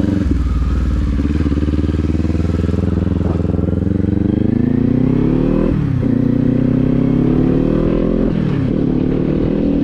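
Kawasaki Z400's parallel-twin engine pulling up through the gears. The pitch climbs, then drops sharply at an upshift about six seconds in, climbs again and drops at a second upshift near the end.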